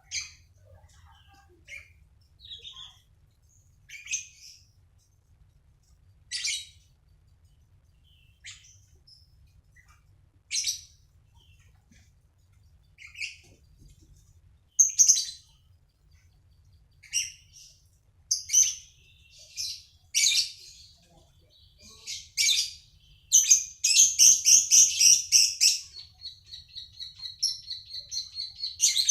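A songbird calling in short, separate high chirps every one to two seconds. Near the end the chirps give way to a fast run of notes and then a rapid trill held on one high pitch.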